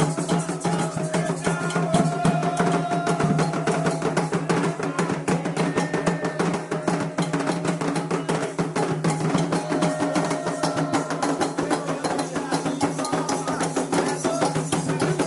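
Candomblé ritual drumming: atabaque hand drums and an agogô bell playing a fast, steady rhythm, with a few long sung notes over it.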